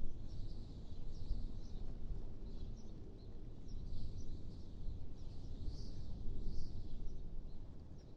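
Wind blowing as a low, gusting rush, with birds chirping in short high calls throughout.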